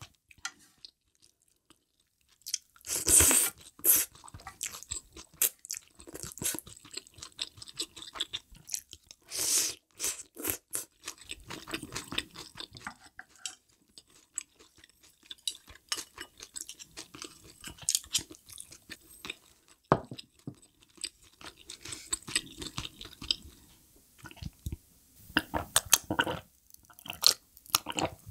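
Close-miked chewing and crunching of spicy hot pot ingredients, a run of short irregular wet clicks and crackles. Two louder noisy stretches of about a second come around three and ten seconds in.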